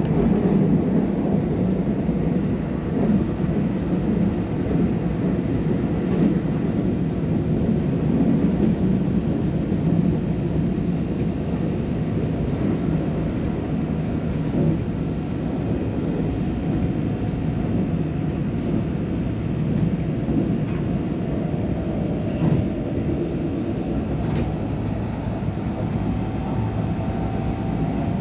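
Keihan train running along the line, heard from inside the front car: a steady rumble of wheels on rails, with a few sharp clicks.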